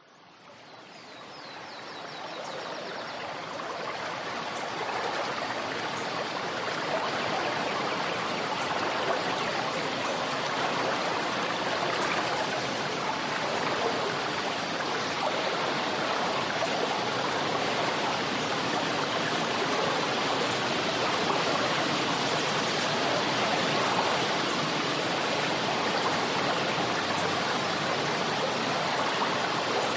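Forest river flowing: a steady rush of running water that fades in over the first few seconds and then holds even.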